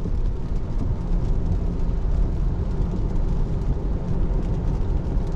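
Tyre and road noise from a Tesla Model 3 driving on a wet road, heard inside the cabin: a steady low rumble with a hiss over it and no engine note.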